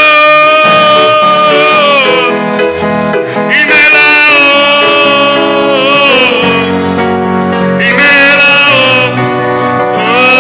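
Gospel worship song: singing in long, held, sliding notes over instrumental accompaniment, in three drawn-out phrases.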